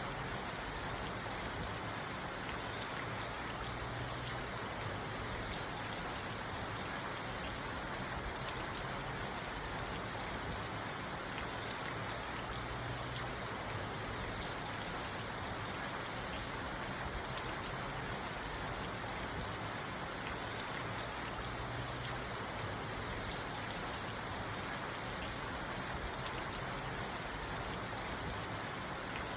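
Steady rain drumming on a parked car's roof and windows, heard from inside the car.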